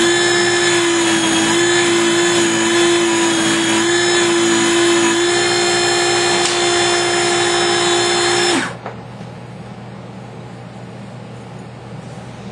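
Small power tool running at a steady high speed with a loud whine, then switched off about eight and a half seconds in and spinning down quickly.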